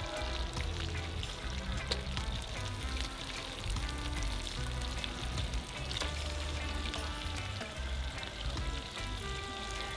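Crayfish frying and sizzling in a wok on a portable stove, with a few clicks from a wooden spatula in the pan. Background music with a steady bass line plays over it.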